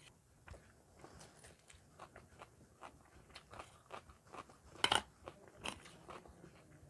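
Close-up chewing of a mouthful of fried rice, with many small clicks and crunches, and cutlery scraping and clinking on a steel plate; the loudest is a single sharp click about five seconds in.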